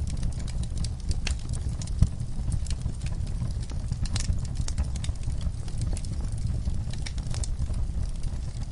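Wood fire burning in a fireplace: a steady low rumble with scattered sharp crackles and pops, the loudest pop about two seconds in.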